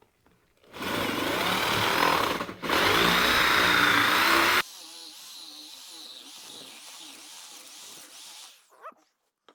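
Electric drill boring a large hole into a wooden block, running loud with a brief break partway. About two-thirds of the way through, the sound drops abruptly to a much quieter whir that dies away.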